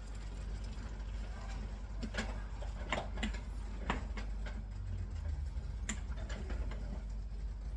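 Irregular light clicks and taps of kitchen utensils against cookware, over a steady low hum.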